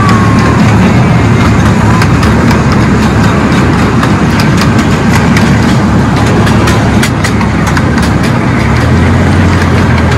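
Miniature park train running, heard from an open passenger car: a loud steady rumble with a low hum, with irregular clicking and rattling from the wheels and cars on the track.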